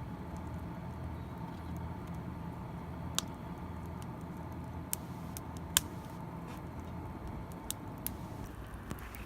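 Campfire crackling: a few sharp, scattered pops from burning wood over a steady low hum.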